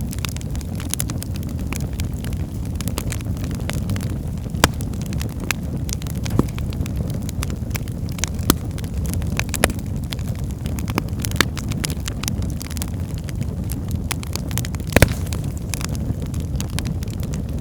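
Wood fire burning in a fireplace: a steady low roar of the flames with irregular sharp crackles and pops. The loudest pop comes about fifteen seconds in.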